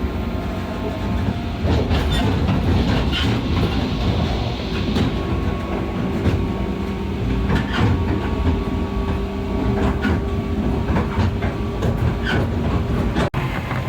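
A train running along the track: a steady rumble with a faint motor hum and scattered wheel clacks over rail joints. The sound briefly cuts out near the end.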